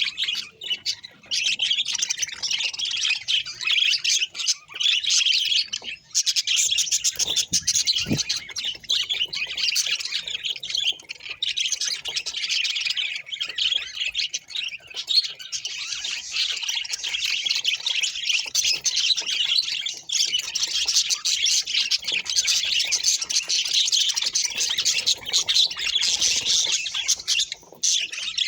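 Budgerigar chattering and warbling without a break: a dense, fast stream of short high notes with only a few brief pauses.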